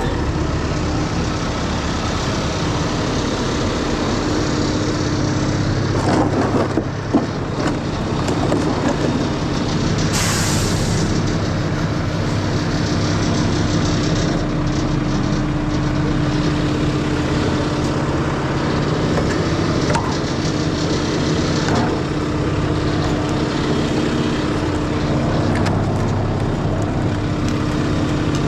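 Heavy truck engine running steadily, with a short burst of hiss about ten seconds in.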